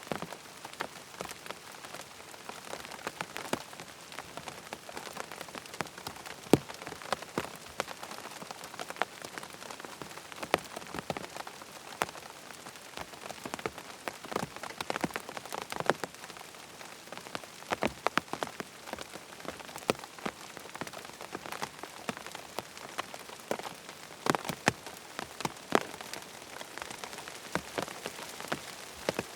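Steady rain falling on a tent, a constant hiss with many separate drops tapping sharply on the fabric.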